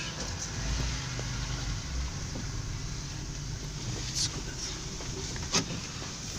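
Car cabin noise while driving: the engine and tyres make a steady low rumble. Two short sharp clicks come about four and five and a half seconds in.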